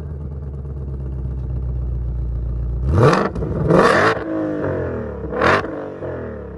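2020 Shelby GT500's supercharged 5.2-litre V8 idling steadily, then blipped three times, about three, four and five and a half seconds in. Each rev rises sharply and falls back to idle, the second one lasting longest.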